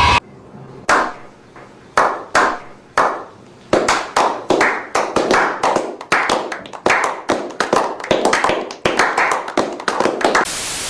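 Hand claps: a few slow single claps at first, then faster and overlapping like building applause, cut off near the end by a short burst of static-like hiss.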